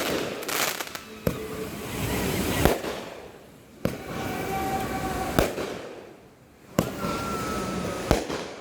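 Fireworks going off: a series of sharp bangs, about one every second and a half, each followed by a fading crackling hiss.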